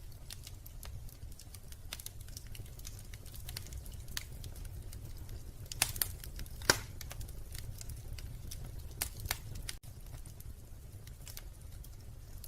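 Wood fire crackling in a fireplace: irregular sharp pops and snaps over a low steady rumble, with a few louder pops about halfway through.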